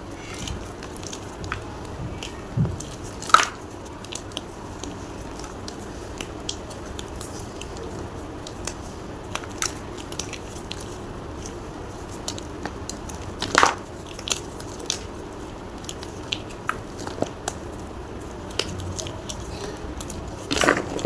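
Gym chalk crunching and crackling in scattered sharp cracks, with louder crunches about 3 seconds in, near 14 seconds and just before the end.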